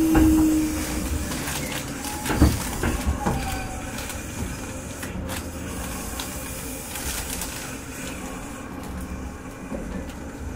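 Kintetsu 30000 series electric train motor car, heard from inside, slowing to a stop. A falling motor whine dies away about a second in, followed by scattered clicks and a couple of short squeals, then a quieter steady rumble and hiss.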